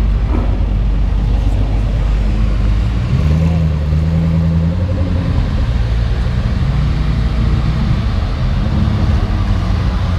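Supercar engines running as a procession of cars rolls past at low speed: a steady low rumble with an engine note that rises and falls a few times.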